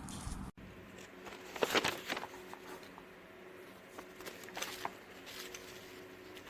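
A low steady hum cuts off abruptly about half a second in. After it come scattered light clicks and two short rustling bursts, like small objects being handled.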